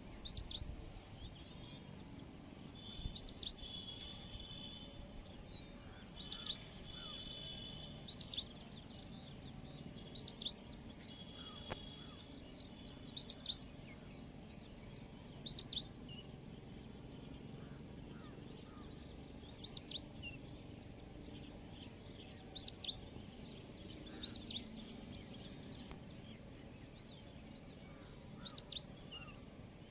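A songbird repeating a short, sharp, high-pitched call about every two seconds, with a longer pause in the middle. Brief trilling notes from another bird come in between the calls.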